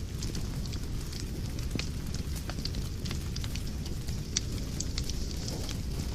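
Wood fire crackling in a fireplace: a steady low rumble of burning with scattered sharp pops and snaps, one louder pop about two-thirds of the way through.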